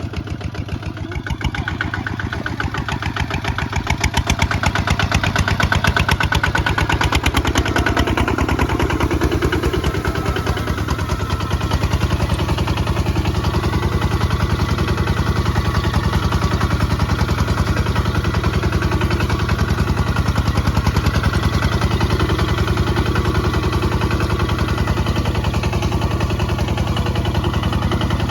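Kubota ZT155 single-cylinder diesel engine running with a steady, fast chug of firing pulses, growing louder about four seconds in and then holding steady.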